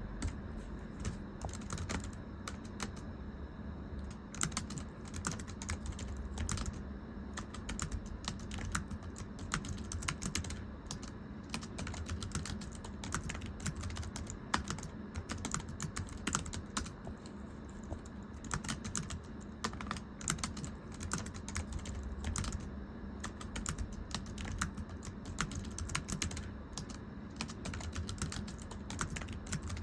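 Continuous typing on a very thin computer keyboard: a rapid, uneven run of light, flat key clicks, the "pechi-pechi" patter of a thin keyboard, with a couple of short lulls.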